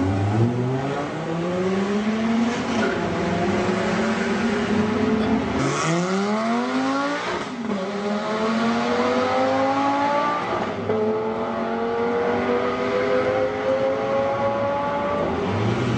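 A supercar engine accelerating hard through the gears: its pitch climbs steadily, drops sharply at each upshift, then climbs again, with about three shifts.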